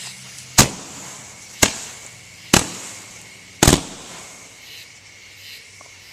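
Consumer multi-shot firework candle (96-shot color pearl flowers with report) firing: four sharp bangs about a second apart, the last one a quick double bang.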